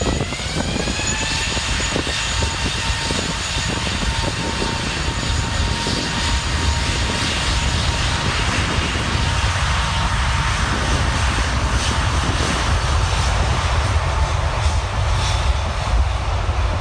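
Jet airliner's engines spooling up to takeoff thrust: a whine that rises in pitch over the first two seconds, then holds steady over a loud, continuous jet rumble.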